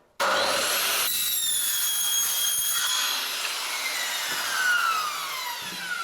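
Circular saw with a diamond disc cutting through a metal framing profile: it starts suddenly and gives a harsh, high ringing whine. After about three seconds the whine falls steadily in pitch as the blade winds down.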